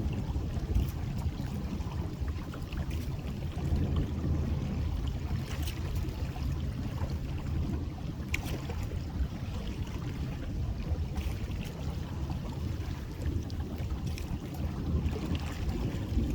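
Boat motor running steadily at a low idle, with wind buffeting the microphone and scattered faint clicks over the top.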